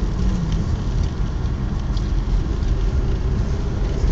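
Subaru climbing a snowy mountain road, heard from inside the cabin: a steady low rumble of engine and tyre noise with faint scattered ticks over it.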